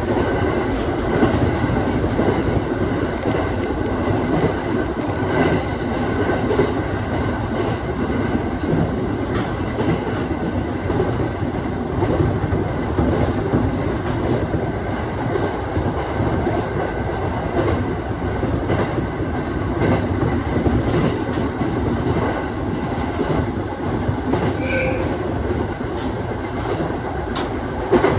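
Aoimori Railway 701 series electric train running along the line, heard from inside the car: a steady rumble of wheels on rail with scattered clicks over the track. A brief high squeak comes a few seconds before the end.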